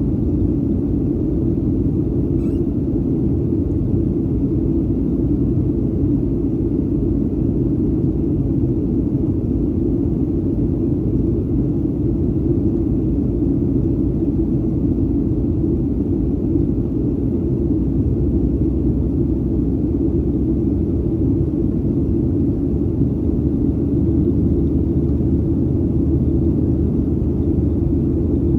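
Boeing 737-800 cabin noise heard from inside the cabin: a steady low rumble of engines and airflow.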